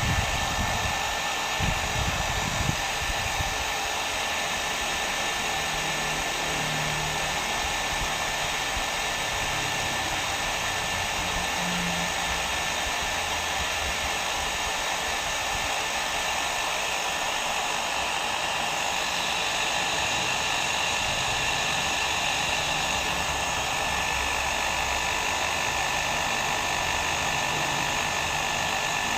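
Hair dryer running steadily, a continuous blowing hiss with a thin steady whine, used as white noise.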